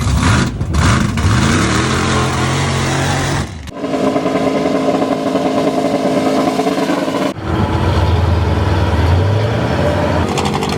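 Off-road vehicle engines revving hard, heard in three clips with sudden cuts between them: the first climbs in pitch, the second holds a high steady run, and the third is a lower-pitched engine.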